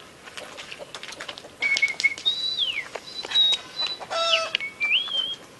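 Birds whistling in short calls: a brief steady note, a long falling slide, high steady notes and a rising slide near the end. They sound over a run of sharp clicks from a cloth flag flapping in the wind.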